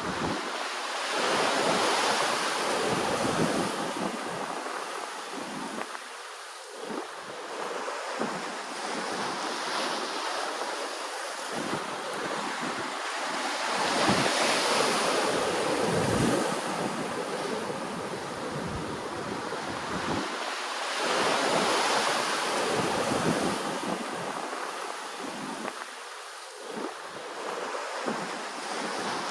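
Ocean waves breaking and washing ashore. The surf swells and ebbs, with louder waves about 2 seconds in, around the middle and about three-quarters of the way through.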